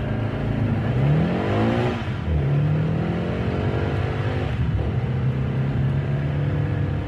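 Sports car engine heard from inside the cabin. It revs up quickly about a second in and falls back, then climbs slowly in pitch, drops sharply just before the five-second mark, and runs on steadily.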